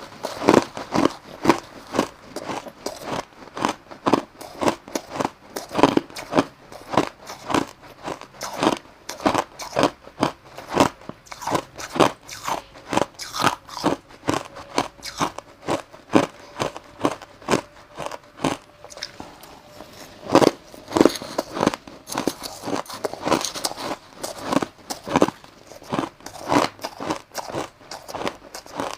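A person biting and chewing crushed ice close to the microphone: a steady run of sharp, crackling crunches, several a second.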